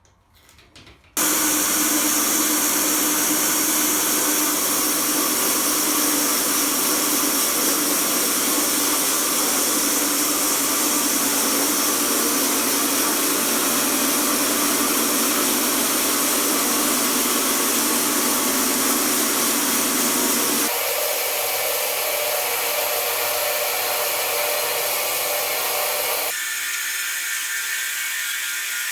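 Small sawmill's powered saw running steadily through a log. It starts suddenly about a second in, and its tone turns thinner twice near the end as the deeper part of the sound drops away.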